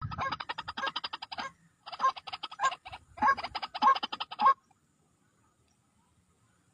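White-breasted waterhen calling: rapid runs of harsh repeated notes, about eight a second, in three bursts that stop about four and a half seconds in.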